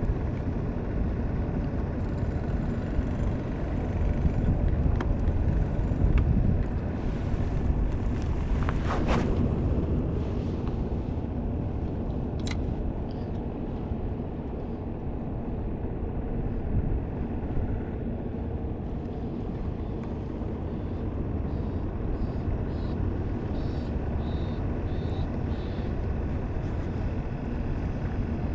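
Steady wind buffeting the microphone over water around a small boat, with a few faint clicks and a brief louder rush about nine seconds in.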